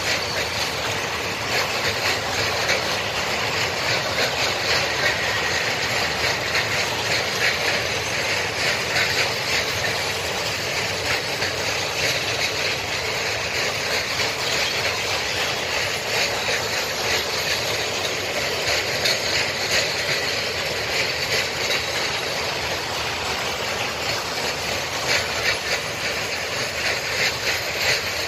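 Freight train of open-top wagons rolling past: a steady rumble and rattle of steel wheels on the rails, with frequent clicks throughout.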